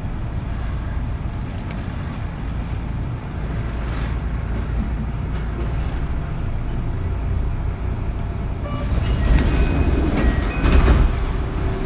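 Interior running sound of a Kintetsu 3200 series motor car with a steady rumble of wheels and motors. About nine seconds in, the Mitsubishi early-type GTO VVVF inverter whines in stepped tones and the sound swells briefly.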